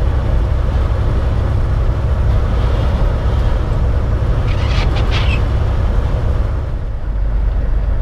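Steady low rumble of a semi truck driving into very strong wind, heard from inside the cab, with a brief cluster of rattling clicks about five seconds in.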